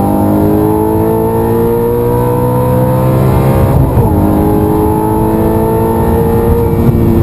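Audi R8 engine heard from inside the cabin under hard acceleration, its pitch climbing steadily through a gear, a brief break for an upshift about four seconds in, then climbing again and easing off near the end.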